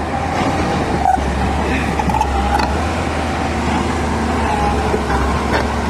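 Heavy machine's engine running steadily, with faint voices in the background.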